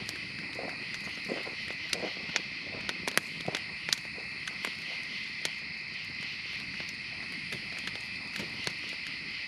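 Crickets or other night insects chirping in a steady high chorus. Scattered sharp clicks and snaps come over it, most of them in the first four seconds.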